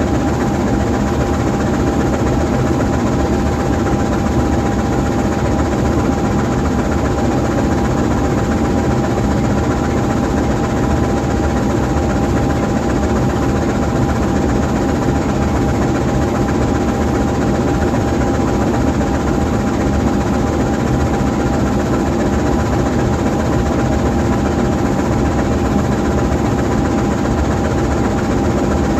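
GE U20C diesel-electric locomotive idling steadily, its V12 diesel engine running without change, with a thin steady whine above the engine note.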